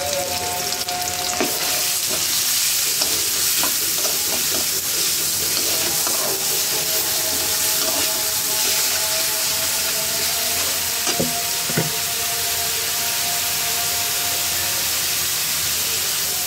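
Sliced onions and green chillies with garlic paste sizzling in hot oil in an aluminium karahi, stirred with a metal spatula that scrapes and taps against the pan every few seconds.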